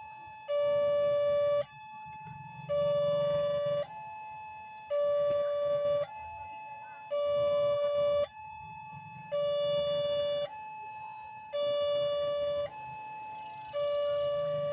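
Electronic warning alarm of a WANTECK railway level-crossing gate, sounding a two-tone hi-lo signal that warns of an approaching train. A loud lower note of about a second alternates with a softer, higher note, about every two seconds. A hiss rises near the end.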